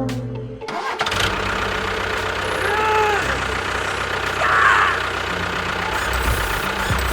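The tail of a falling, trombone-like music sting, then an engine starts about a second in and runs steadily, with a couple of short squeaky chirps over it.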